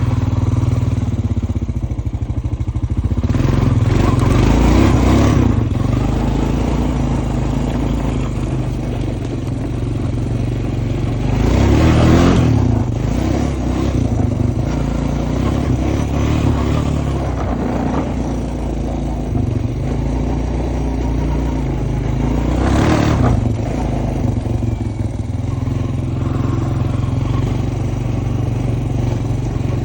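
Honda Foreman ES ATV engine running under way on a trail ride, with three brief louder surges, about a few seconds in, near the middle, and about three quarters through.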